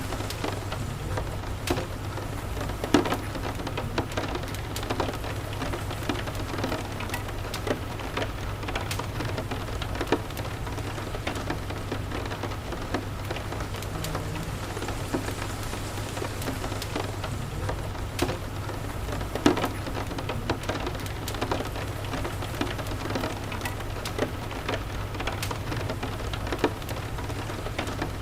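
Steady rain mixed with a crackling fireplace: an even hiss of rain with scattered sharp crackles and pops, two louder pops about three seconds in and about two-thirds of the way through, over a low steady rumble.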